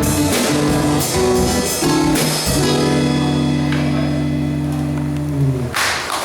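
Live samba band with guitar and drum kit playing the closing bars of a song, then landing on a final chord held for about three seconds that cuts off near the end.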